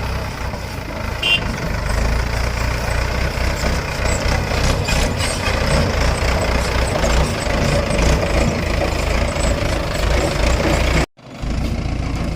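Diesel engines of a JCB 3DX backhoe loader and a four-cylinder Mahindra 585 DI tractor running steadily, with a deep rumble. The sound cuts out for a moment near the end and then resumes.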